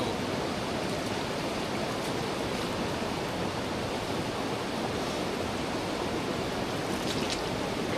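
River water rushing steadily, a strong current over rocks, with a couple of faint short ticks near the end.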